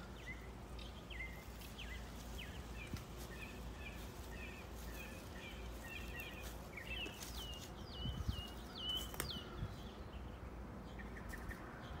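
Songbirds calling in trees: a string of short chirps, then a quick run of down-slurred whistled notes a little past the middle, the loudest part, with one sharp click among them. A steady low rumble lies underneath.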